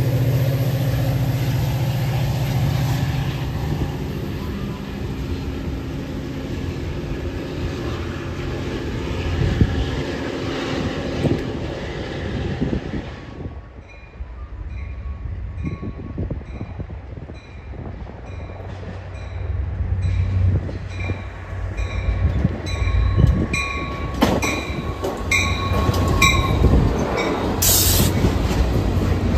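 Diesel-hauled passenger train rolling through the station with wheel and engine noise. Midway it quietens and a bell starts ringing at an even rate, a little faster than once a second, while a low diesel engine hum builds beneath it.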